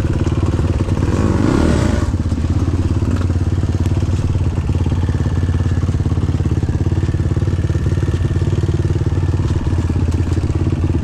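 Vehicle engine running steadily under way, with a brief rush of noise about a second in.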